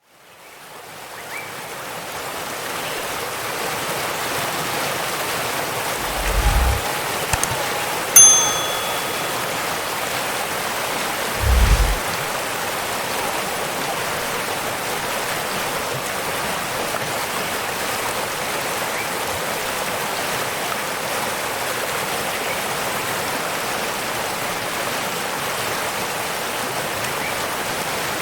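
Steady rushing water of a waterfall, fading in over the first few seconds. A single bright ringing ding sounds about eight seconds in, and two short low thuds come, one a little before it and one a few seconds after.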